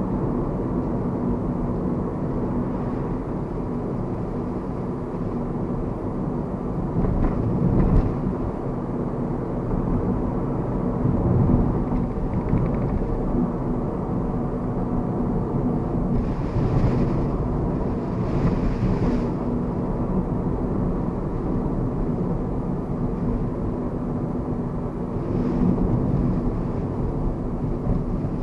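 Mazda Verisa being driven, steady road and engine noise heard from inside the cabin with a low rumble. A single knock comes about eight seconds in, and a few brief hisses come and go later.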